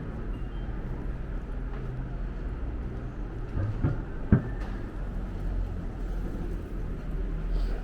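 City street ambience: a steady low rumble of vehicle traffic, with one sharp knock about four and a half seconds in.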